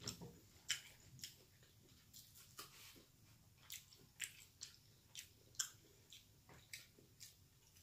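A person chewing with the mouth closed: faint, close-up wet mouth clicks and smacks, about two a second.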